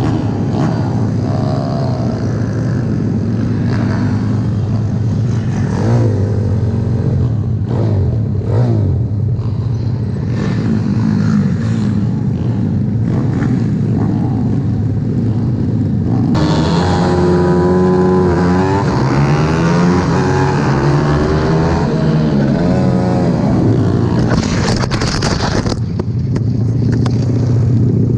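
Several small single-cylinder pit bike engines on a race grid, idling and blipping the throttle, then revving over one another, rising and falling in pitch, from about halfway through.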